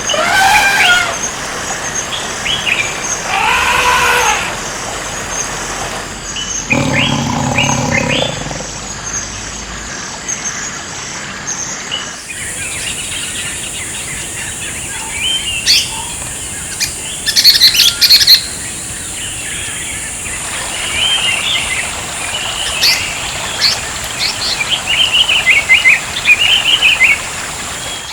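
Forest birds calling and chirping in a string of short, varied calls, with a lower call a little over halfway into the first half. From about halfway through, a steady high-pitched tone runs beneath the birdsong.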